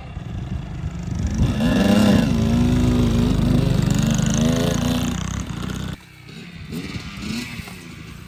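Dirt bike engine revving up under throttle, its pitch climbing and then holding steady, before it drops away suddenly about six seconds in as the throttle is shut.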